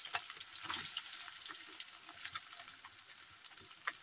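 Soya chunks sizzling as they fry in hot oil in a steel kadai, with scattered small crackles and pops; the sizzle slowly dies down.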